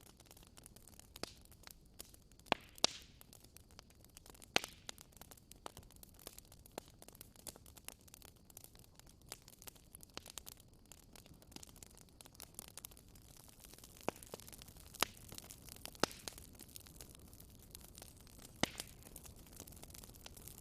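Campfire crackling: irregular sharp pops and snaps over a low steady hiss, with a handful of louder pops scattered through.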